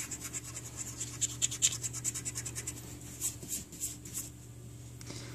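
Eraser rubbing quickly back and forth on paper, several strokes a second, erasing a pencil guide oval from a drawing; the strokes die down about four seconds in.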